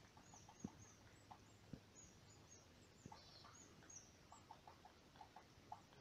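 Near silence in a forest. High, thin calls of small birds are faint, with runs of soft ticks, mostly around four to five seconds in, and a few dull low thumps.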